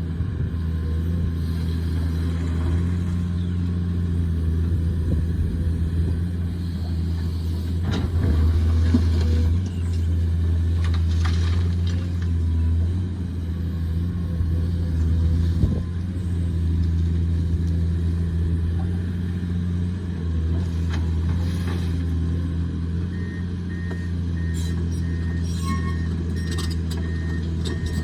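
Excavator's diesel engine running steadily, with a few sharp knocks of work along the way and a repeating high beep over the last few seconds.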